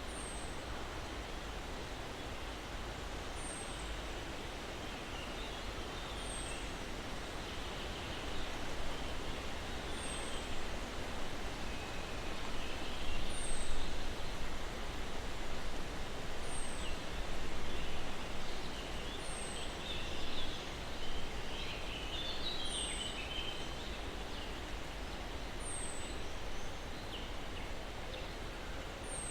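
Breeze rustling through pine branches, a steady hiss that swells louder through the middle and settles again near the end. Over it a thin, high bird chirp falling in pitch repeats about every three seconds, with softer twittering birdsong in the background.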